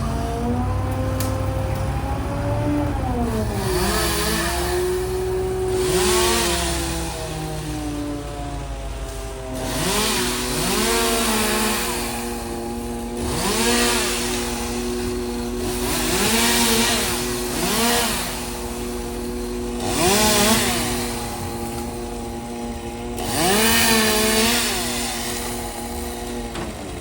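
Chainsaw revving in repeated short bursts, about one every two to three seconds, its pitch dipping and recovering with each cut. A steady engine hum runs underneath.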